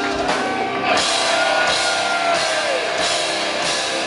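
Live rock band playing: distorted electric guitar holding a note that bends down in pitch, over drums with a cymbal crash about a second in.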